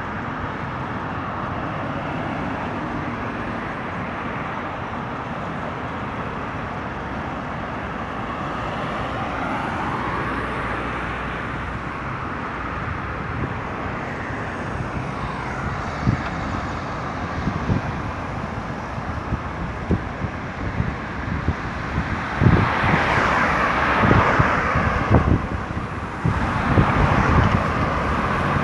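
Road traffic on a busy highway: a steady wash of cars passing, rising and falling as vehicles go by. Short low thumps come in the second half, and louder vehicles pass near the end.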